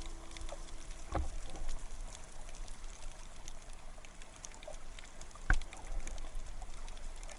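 Underwater ambient sound over a coral reef: a steady water hiss full of faint scattered crackles, with a louder knock about a second in and another, the loudest, about five and a half seconds in.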